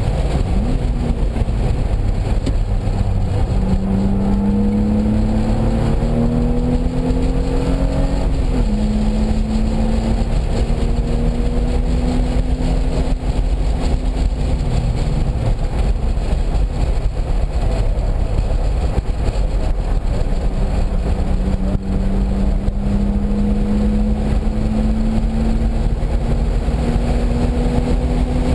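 Car engine pulling hard around a race track: its note climbs for a few seconds, drops sharply at an upshift about eight seconds in, climbs slowly again, eases off mid-way and climbs once more near the end. Heavy steady wind and road noise runs beneath it.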